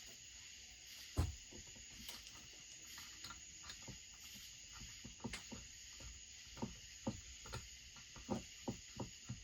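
Faint, irregular clicks and knocks of chainsaw parts and tools being handled on a workbench, over a steady high-pitched background hiss; the knocks come more often in the last few seconds.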